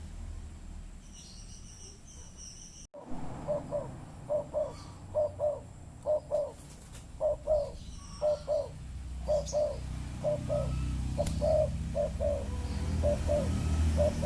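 Spotted dove cooing over and over in short paired low notes, starting about three seconds in after a brief dropout. A few high chirps from a small bird come early on.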